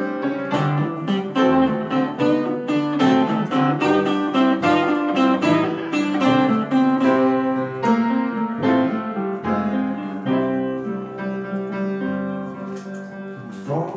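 Live blues band playing an instrumental passage, the piano to the fore with guitar behind it.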